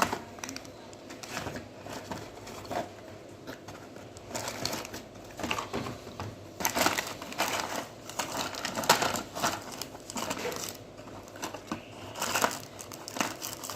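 Hands rummaging through small parts: irregular rustling, crinkling and light clicks and knocks.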